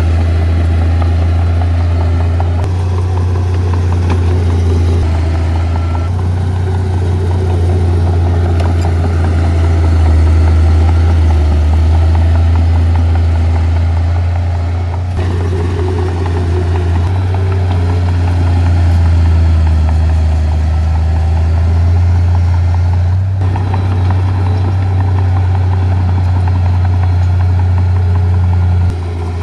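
Diesel engine of heavy earthmoving equipment running steadily, a deep low drone that swells and eases a little with the load.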